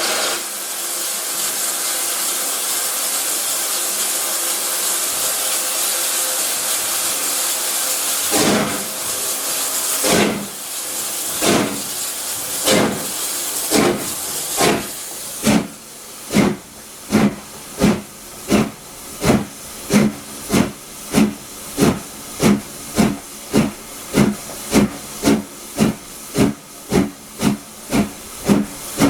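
Steam locomotive LSWR S15 No. 506, a two-cylinder 4-6-0, hissing steam while standing, then starting away: its exhaust beats begin about a third of the way in, slow and spaced, and quicken steadily to about two beats a second as the train gathers speed.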